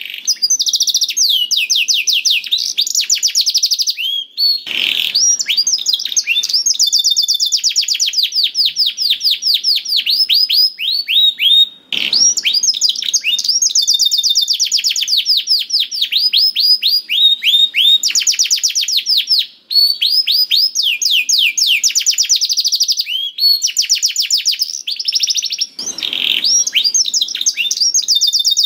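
Domestic canary singing continuously: long, fast trills of rapidly repeated high chirping notes that change in speed and pitch from phrase to phrase with hardly a break, the lively song kept by canary fanciers as a lure to set other canaries singing.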